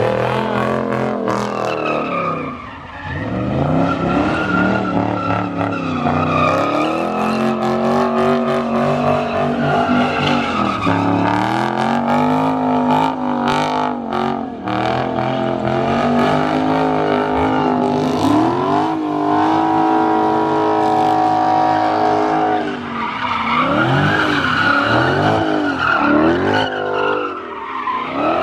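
A car engine revving hard up and down, held at high revs for a few seconds at a time, as the car does donuts with its tyres squealing and skidding.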